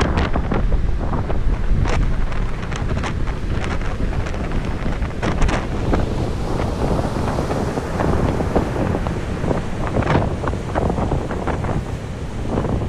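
Strong wind buffeting the microphone in gusts, a constant rumble with crackling, over the wash of a rough sea.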